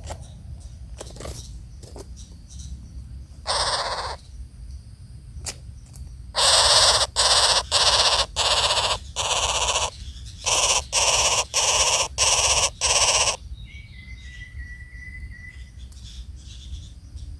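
Bird giving harsh, rasping calls: one call a few seconds in, then a loud run of about ten calls of half a second each, close together.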